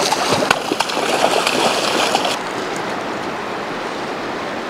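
River water rushing. A louder, splashier stretch with scattered knocks cuts off abruptly about halfway through, leaving the steady, even rush of the current.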